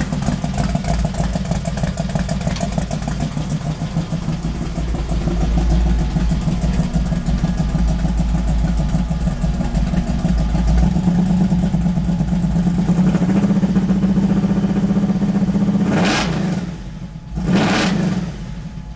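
Chevrolet 454 big-block V8 with a BDS 8-71 Roots-type supercharger idling steadily, then revved in two quick throttle blips near the end, each rising and falling back.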